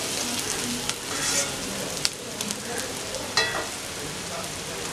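Sliced okra sizzling in hot oil in a metal karai while a metal spatula stirs it, scraping against the pan. There are a couple of sharp metal clinks, the loudest about three and a half seconds in. The steady sizzle carries on after the stirring stops.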